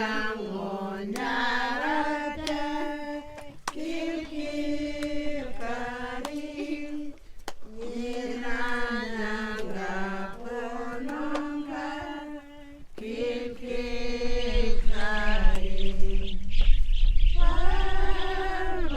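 Voices singing a chant-like song in long, held phrases that step up and down in pitch. A low rumble joins about two-thirds of the way through.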